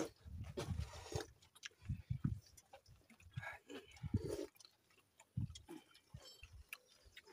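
People eating by hand from a metal cooking pot: close chewing and slurping mouth sounds, with irregular small knocks and clicks.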